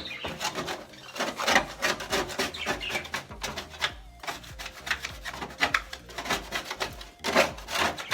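A plastic card scraping bird droppings off the bottom of a budgie cage, in quick, irregular strokes.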